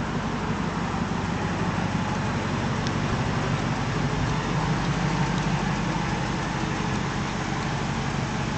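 Ford SVT Lightning pickup's V8 engine running steadily at idle, a little louder in the middle.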